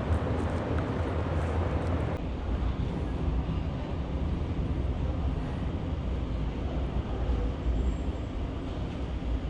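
Tyne and Wear Metro train running on the rails, a steady low rumble of wheels and track. A few light clicks and some higher hiss in the first couple of seconds drop away after that.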